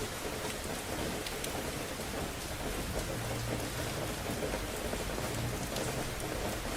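Steady rain of a thunderstorm with scattered sharp drop ticks, and a low rumble of thunder in the background.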